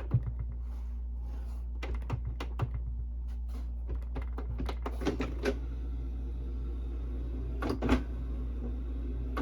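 Canon Pixma inkjet printer's paper-feed mechanism clicking and knocking irregularly over a steady hum as it tries and fails to feed paper, with the two loudest knocks near the end. The owner takes the sound for a broken belt or gear.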